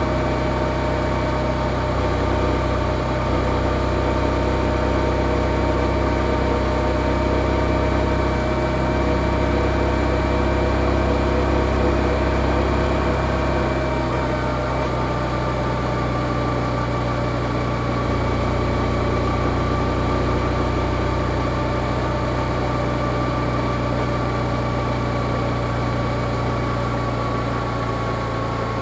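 Yamaha XSR155's single-cylinder engine with stock exhaust running steadily. Its note shifts to a different pitch about halfway through.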